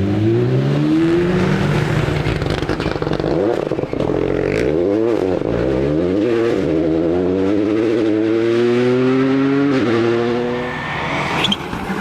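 Rally car engine accelerating hard, its pitch climbing through the revs and dropping back at each gear change. There is a short sharp sound near the end.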